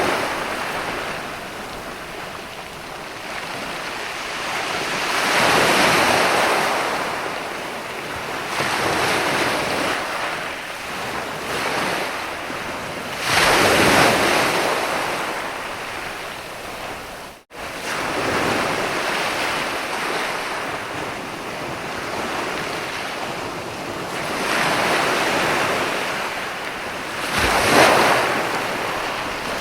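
Sea surf breaking and washing up a beach, each wave swelling and falling away every few seconds, with a split-second dropout in the sound about halfway through.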